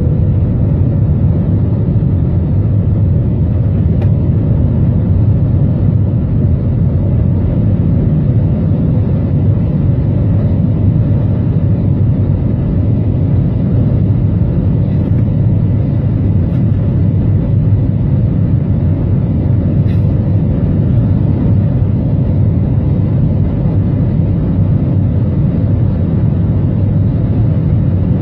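Steady engine and airflow drone inside an aircraft cabin during the climb after takeoff, deep and unbroken, with a faint steady hum above it.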